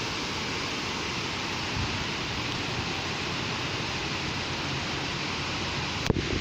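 Steady rain falling as a constant even hiss. Near the end, a couple of sharp clicks cut in.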